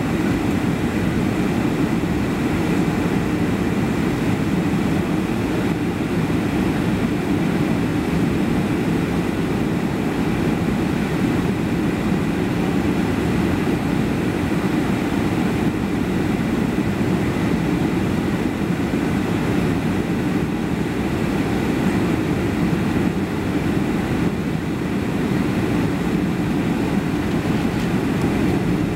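Boeing 757 airliner heard from inside the passenger cabin: a steady roar of engines and rushing air, with a faint high whine over it.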